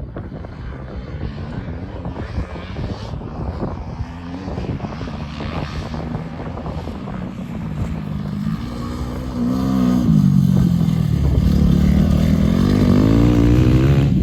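Motocross dirt bike engine running and revving, its pitch rising and falling, growing much louder about two-thirds of the way through as it comes close.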